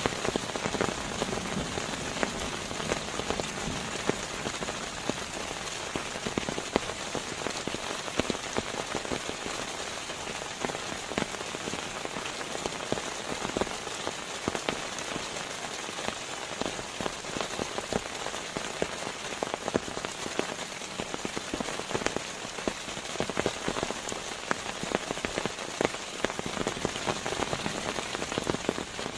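Steady rain, with many individual drops ticking over an even hiss.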